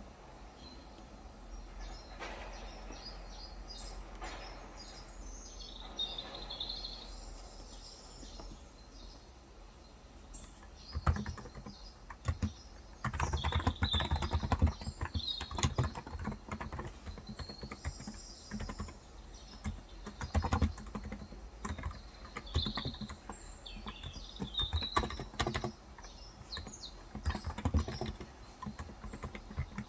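Typing on a COX Endeavor electrostatic capacitive (contactless) keyboard with 35 g switches. The keystrokes start about a third of the way in and come in fast runs. Small birds chirp throughout.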